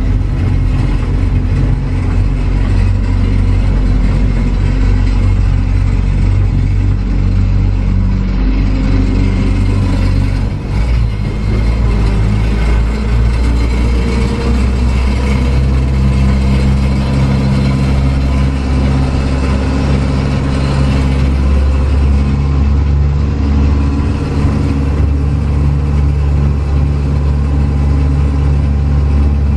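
Engine of the trackless road train's towing vehicle running steadily under way, heard on board. There is a brief dip about ten seconds in, after which the low engine note changes and holds steady again.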